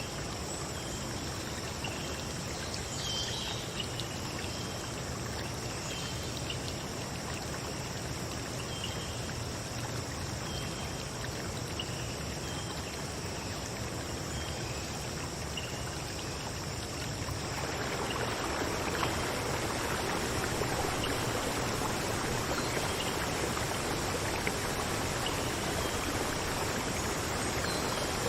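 Running stream water: a steady rush that gets louder about two-thirds of the way through, with short high chirps repeating in the first half.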